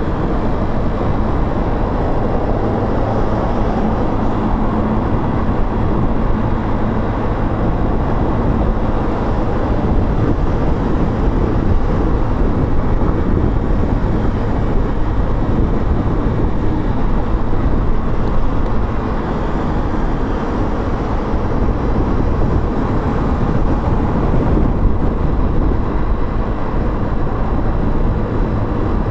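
Motorcycle riding through city traffic, recorded on board: a steady, loud low rumble of engine and wind noise. It eases slightly about 25 seconds in.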